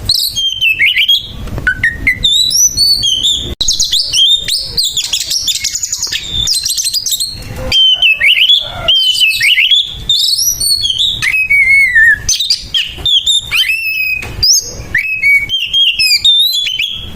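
Oriental magpie-robin (kacer) singing its loud, rough fighting song: a fast, unbroken run of varied whistles, rising and falling slurs and harsh chirps.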